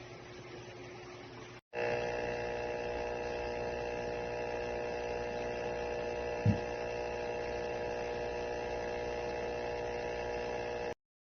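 Small USB ultrasonic humidifier running with a steady electrical hum made of several fixed tones, with one short thump partway through. The hum cuts off abruptly near the end.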